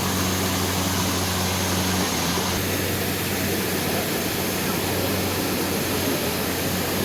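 Steady rush of a waterfall and fast-flowing stream, with a low steady hum underneath that fades about two seconds in.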